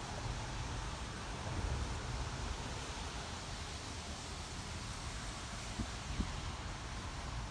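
Wind buffeting the microphone, an unsteady low rumble over a steady outdoor hiss, with two faint knocks about six seconds in.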